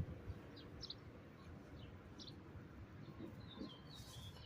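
Faint, short, high bird chirps, scattered irregularly over a low background hiss.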